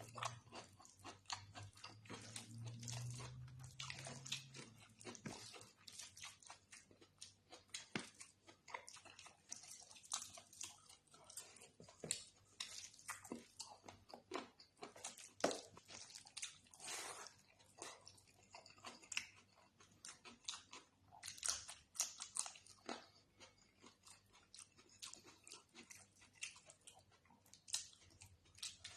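A person eating close to the microphone: irregular wet chewing, smacking and biting clicks, with some crunching.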